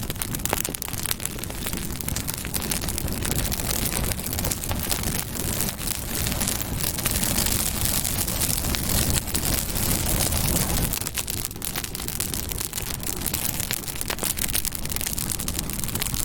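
Campfire burning: dense crackling and sharp popping of the wood over a steady low rumble of the flames.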